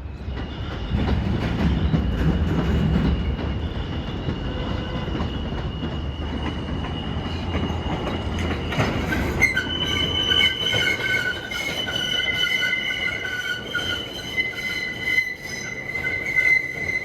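NYC subway train's steel wheels squealing on the rails over the low rumble of the train running. A single high squeal changes to several squealing tones about halfway through, while the rumble fades.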